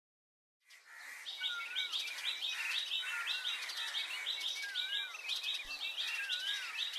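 Birds chirping: rapid repeated high chirps, with a short dipping-and-rising whistle that comes back about every second and a half. It starts under a second in.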